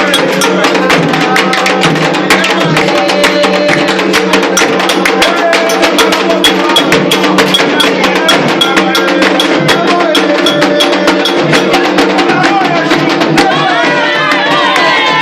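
Afro-Brazilian ritual drumming and chanting for Exu: hand drums and struck percussion keep a fast, dense rhythm under sung lines. Near the end, high sliding sounds rise over the drumming.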